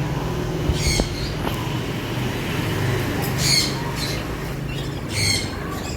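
Pet lovebirds giving short, high-pitched squawks about a second in, again around the middle and near the end, over a steady low hum.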